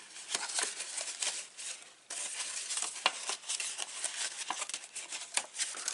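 Paper rustling and crinkling as it is folded and handled, with small ticks and one sharper click about three seconds in.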